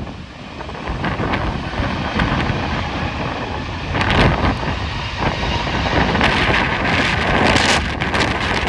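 Strong gusting wind buffeting the microphone, over a steady whine from a jet airliner's engines. The gusts swell about four seconds in and again in the last few seconds.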